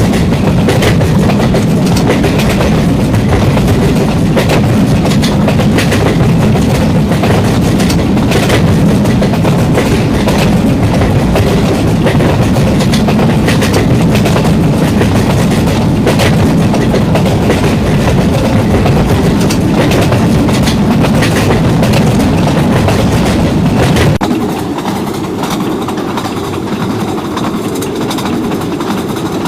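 Train running close by: the heavy low rumble of a diesel locomotive mixed with an irregular clatter of wheels over rail joints. About 24 seconds in the sound drops suddenly to a quieter, lighter rumble.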